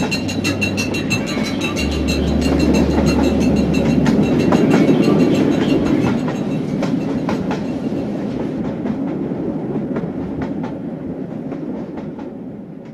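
Train running on rails, its wheels clacking rapidly and regularly over the track, fading out over the last few seconds.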